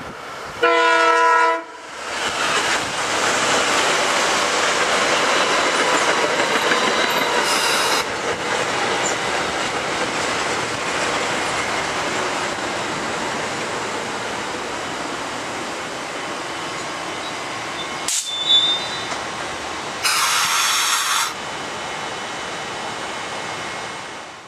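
Metro-North electric multiple-unit commuter train sounding a short horn blast, then passing close by at speed with a steady rush of wheels on the rails that slowly fades. Another short horn blast sounds near the end, and a sharp click comes just before it.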